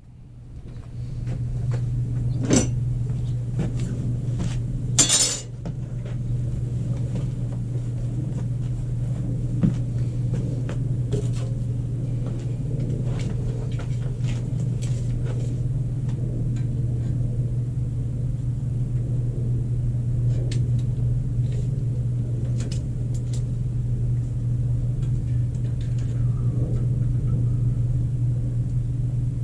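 A steady low hum with scattered sharp metallic clinks and knocks, the loudest about two and a half and five seconds in, as of metal parts being handled in a shop.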